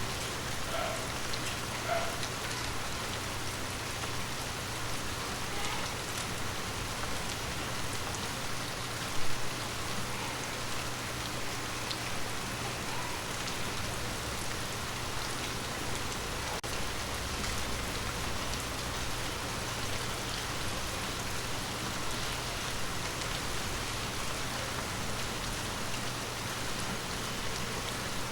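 Steady rain pattering on forest leaves, with one louder, sharper tap of a drop about nine seconds in.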